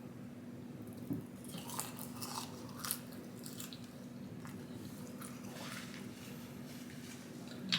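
Close-up eating sounds: a few bites and bursts of chewing of fast food, with a sharp click near the end.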